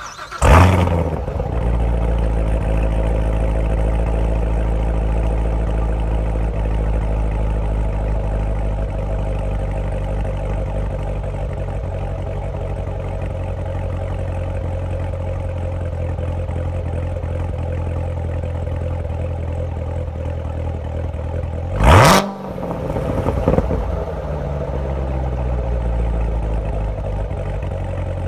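Chevrolet Corvette C7 Z06's supercharged 6.2-litre LT4 V8 is cold-started through a Borla X-pipe with the NPP exhaust valves open. It cranks briefly, catches with a loud flare and settles into a steady cold idle. Later it is revved once sharply, gives a smaller blip a moment after, and drops back to idle.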